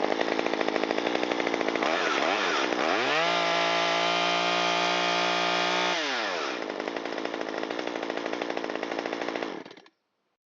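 Stihl MS193T top-handle chainsaw's two-stroke engine test-running after a piston and cylinder rebuild. It idles, gets a couple of short throttle blips, then is held at high revs for about three seconds before dropping back to idle. The sound cuts off suddenly near the end.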